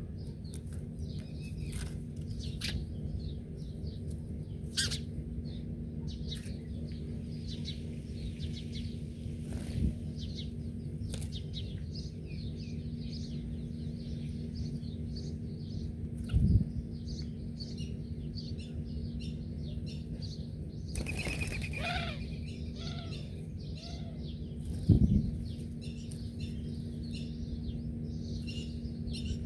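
Small birds chirping continuously in short, high twitters, with one louder, fuller call a little after the middle. A few brief low thumps sound over a steady low hum.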